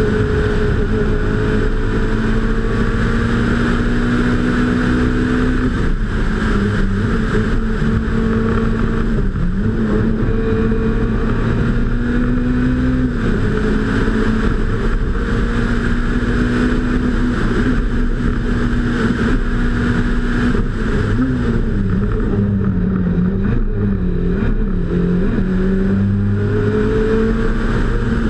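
Peugeot 106 Kit rally car's engine running hard at high revs on a special stage. Its pitch dips briefly about a third of the way in, then falls and rises several times in quick succession near the end as the driver shifts and lifts for corners.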